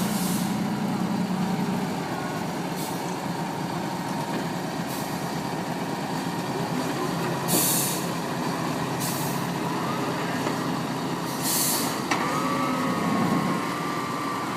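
Heavy off-road trial truck's engine running, its note shifting with the throttle. It is broken by several short, sharp hisses of air being released, the loudest two about halfway through and near the end.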